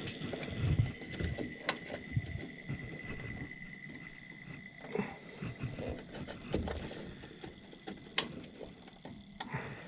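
Hands working on furnace parts: scattered clicks, knocks and rustling, with a sharper knock about eight seconds in, over a steady high-pitched whine that fades near the end.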